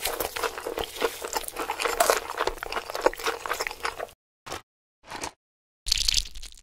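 Crisp crunching and chewing, as of fried chicken being eaten, dense for about four seconds, then three short crunches after gaps.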